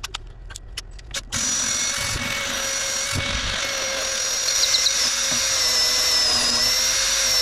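A few light clicks, then about a second in a power drill starts and runs steadily, boring through wood.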